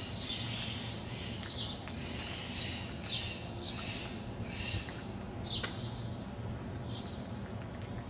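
Small birds calling with short, high, downward-sliding chirps, one or two a second, over a steady low background rumble.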